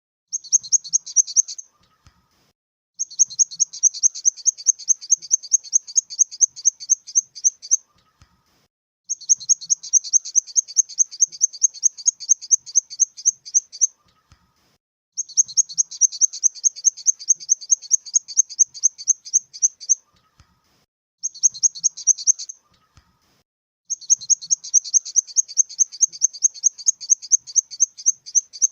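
Grasshopper chirping: fast high-pitched trains of rasping pulses, about eight a second, in bursts of one to five seconds with short pauses between them.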